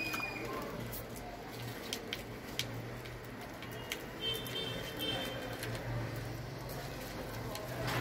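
Budgies chattering, with a short, high warbling call about halfway through, and a few sharp clicks of beaks pecking at broccoli, over a steady low hum.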